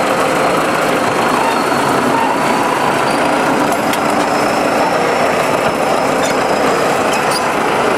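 Heavy machinery's engine running steadily under load while old orchard trees are uprooted.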